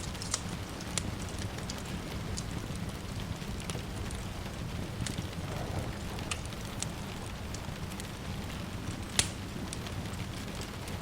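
Wood fire crackling with scattered sharp pops over a steady hiss of rain; one louder pop about nine seconds in.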